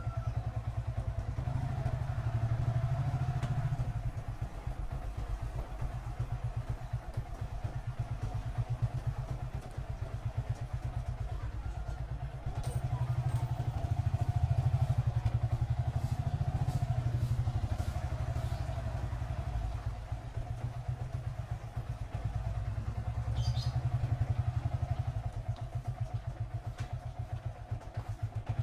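Motorcycle engine running while riding along, its sound swelling and easing with the throttle several times. A few sharp clicks come about halfway through and again near the end.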